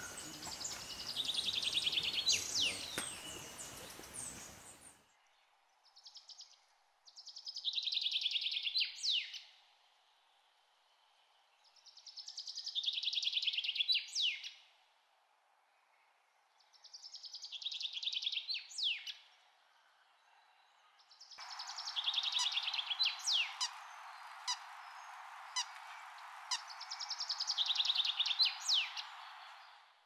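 A bird's rapid, rattling call in phrases about two seconds long, each ending in a sharp slurred note, repeated about every five seconds. A steady hiss comes in behind it about two-thirds of the way through.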